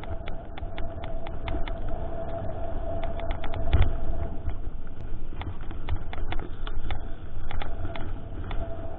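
Mountain bike ridden over a rough trail: a constant low rumble with many sharp clicks and rattles from the bike and terrain, and a steady thin buzz that drops away about halfway through and comes back near the end.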